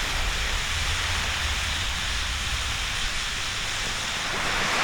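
Steady rushing of sea surf on the shore, with a low rumble under it for the first few seconds and a slight swell near the end.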